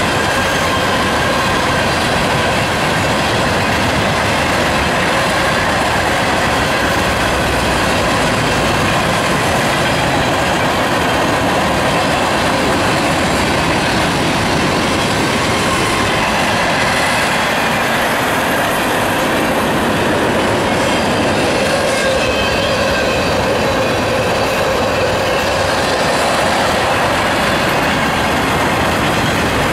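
Freight cars (covered hoppers, boxcars and tank cars) rolling steadily past: a continuous rumble of steel wheels on rail, with a faint steady squeal from the wheels.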